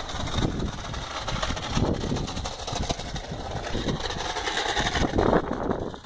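Radio-controlled Audi R8 model car running on the course, its motor rising and falling in pitch as it speeds up and slows, over a steady low rumble.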